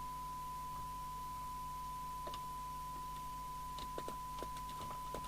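Steady pure test tone from a Harvard H407 FM CB base station's speaker as it receives a signal generator's tone-modulated test signal during S-meter alignment, with a low steady hum under it. A few faint clicks in the second half.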